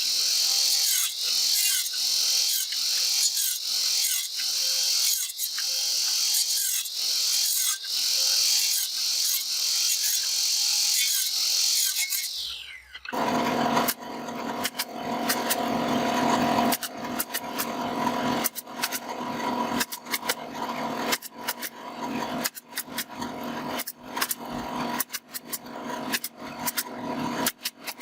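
Rhythmic rasping strokes of a hand tool working wood, about one and a half strokes a second. About halfway through, the sound changes abruptly to a denser, uneven clatter of clicks and knocks over a steady hum.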